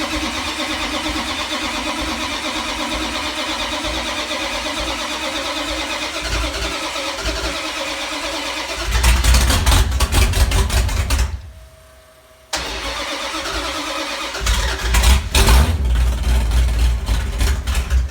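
383 big-block V8 on a test stand being cranked by its starter, catching with a louder low rumble about nine seconds in and dying about two seconds later. It is cranked again, catches once more after a couple of seconds and runs briefly near the end.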